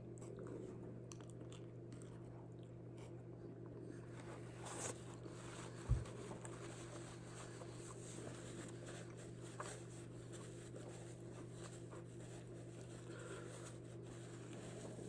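Faint eating sounds: quiet chewing and small rustling handling noises while eating a burrito, over a steady low hum, with one soft thump about six seconds in.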